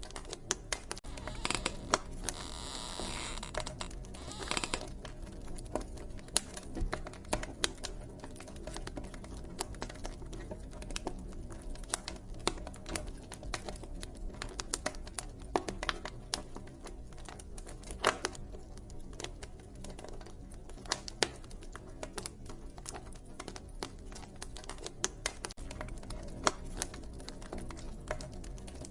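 Wood fire crackling, with irregular sharp pops and snaps over a steady low rumble; a brief hiss swells up about two seconds in.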